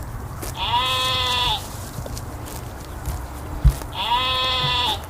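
Sheep bleating twice, each bleat about a second long and slightly arched in pitch, over a steady low rumble. A short thump comes just before the second bleat.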